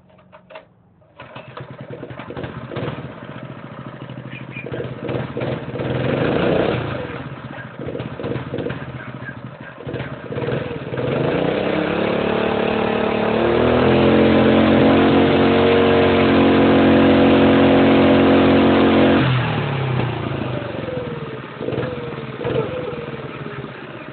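Mini bike's 5.5 hp Honda single-cylinder four-stroke engine starting about a second in after a few clicks, running unevenly, then revved up and held at high speed for several seconds before dropping back to a lower, uneven idle.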